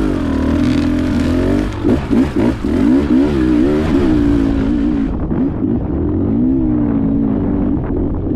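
Dirt bike engine running under throttle, its pitch rising and falling, with several quick revs about two seconds in.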